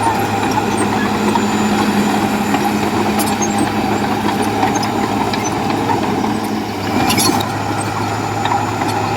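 Bulldozer's diesel engine running steadily, with a short hiss about seven seconds in.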